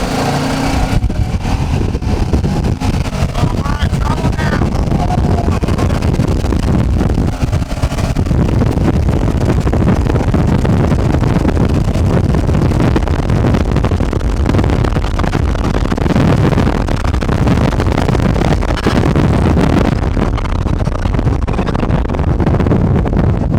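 A motor vehicle running and driving along, a loud continuous rumble.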